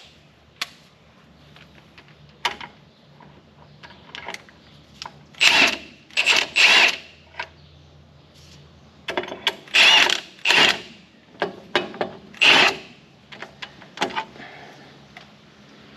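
Impact wrench hammering bolts tight on a tractor loader mounting bracket, in about six short bursts in three groups, with small clicks and knocks between them.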